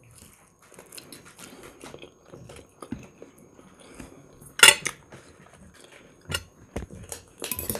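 Close chewing and biting of fried chicken, with soft wet mouth clicks. A sharp clink of a fork against the plate comes a little past halfway, and a few lighter clinks follow near the end.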